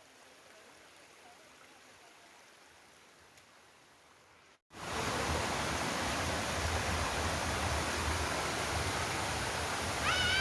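Steady rushing of a waterfall: faint at first, then much louder after an abrupt break about halfway through.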